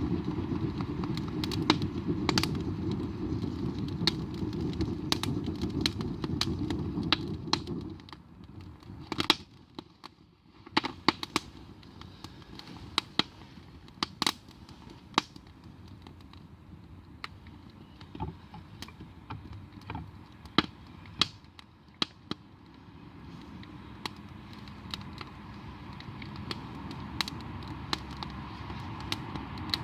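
Wood campfire crackling, with sharp pops and snaps scattered throughout. A steady low rumble underneath stops about eight seconds in.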